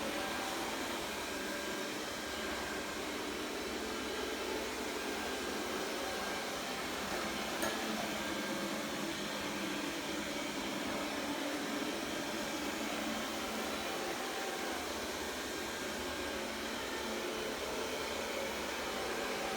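Xiaomi robot vacuum cleaner running with a steady whir, with one brief click about eight seconds in.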